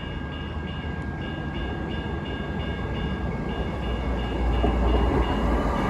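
Portland MAX light-rail train approaching, its low rumble growing steadily louder, with a high tone pulsing about three times a second.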